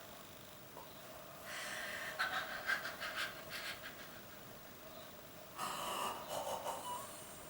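Silent laughter: a person huffing quick breathy puffs of air without voicing, in two bouts.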